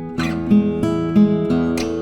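Iris MS-00 acoustic guitar played in a picked pattern, single notes ringing out a few per second, with a brighter strummed chord just after the start and another near the end.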